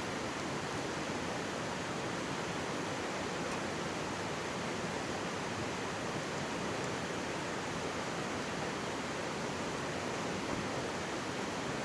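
Mountain stream close by, its water rushing and babbling steadily and evenly.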